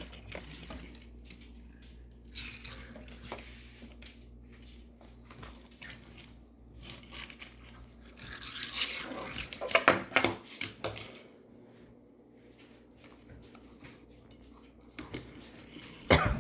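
Toy vehicles being moved around a play track: irregular plastic scraping, rattling and knocks, busiest about eight to eleven seconds in and with a sharp knock near the end.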